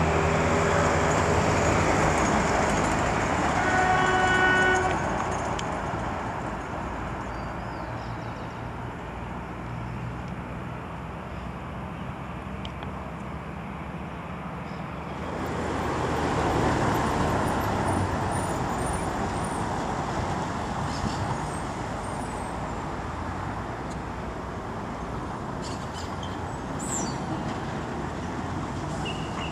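Diesel passenger railcar running along the line, sounding one horn blast about four seconds in, followed by a steady rumble of engines and road traffic.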